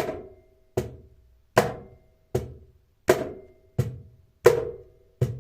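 Cajon struck by hand in an even alternating pattern of high and medium strokes, the medium being a weaker version of the high. Eight strokes come a little over one per second, every other one softer.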